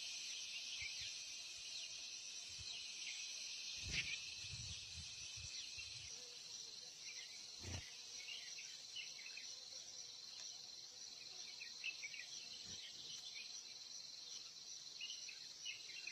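Steady, high insect chorus with a thin ringing tone in it, over faint scattered short chirps. Two soft thumps come about four and eight seconds in.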